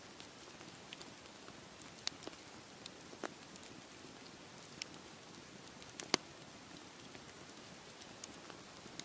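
Campfire crackling, with scattered sharp pops (the loudest about six seconds in), over a steady hiss of sea waves washing on the shore.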